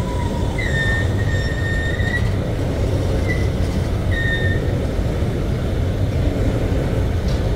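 Freight train of covered grain hopper cars rolling past with a steady low rumble. The wheels squeal in a thin high tone: one long squeal about half a second in, then shorter ones around three and four seconds.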